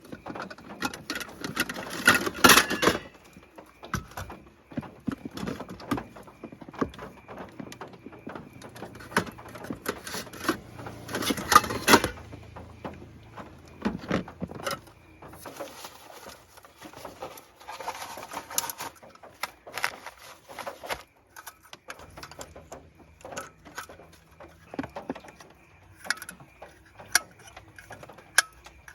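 Objects being handled at close range: a string of irregular clicks and knocks, with louder bursts of rustling about two seconds in, around eleven seconds in and around eighteen seconds in.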